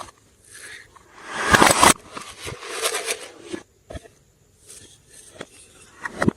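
Hands squishing and stretching glossy slime: sticky crackles and small pops in irregular bursts, loudest about a second and a half in.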